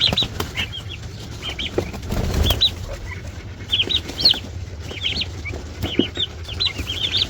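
Three-week-old broad-breasted turkey poults peeping, short high chirps in quick clusters, with scattered knocks and rustling as the birds are handled.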